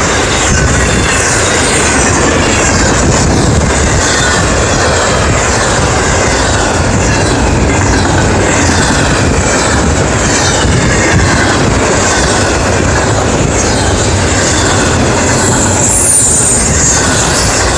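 Cars of an intermodal freight train, trailer flatcars and double-stack container cars, rolling past close by: a loud, steady rumble of steel wheels on rail, with thin high wheel squeals coming and going.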